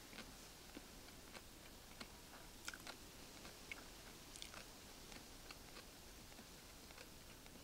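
Faint eating sounds: close chewing with scattered small clicks, over a soft steady hiss.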